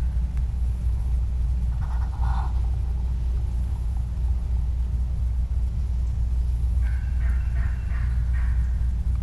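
Wild turkey calls over a steady low rumble: a short, lower call about two seconds in, then a run of quick repeated yelping notes from about seven seconds in.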